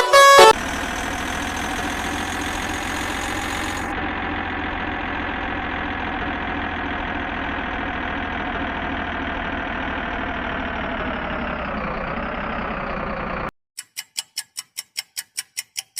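Truck engine idling steadily, its pitch sagging briefly near the end before it cuts off suddenly. Then a rapid clock-like ticking starts, about four ticks a second.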